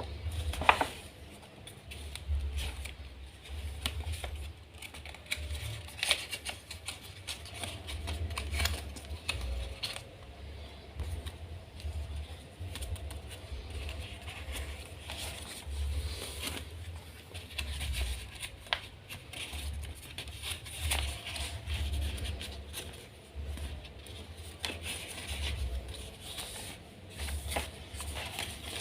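Origami paper being handled, folded and creased by hand: irregular rustling, scraping and crisp little clicks, over frequent low bumps of hands on the work surface.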